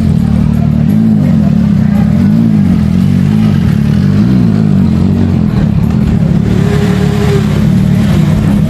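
Superbike engines running loudly and being revved, the pitch rising and falling several times.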